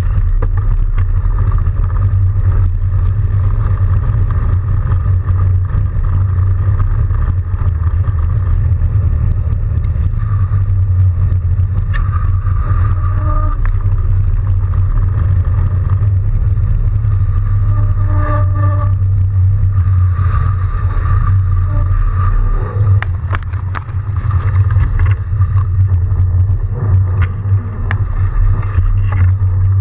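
Steady low rumble of riding an electric-assist fat bike through snow, with a thin steady whine higher up. Brief pitched tones come in about 13 and 18 seconds in, along with scattered light clicks.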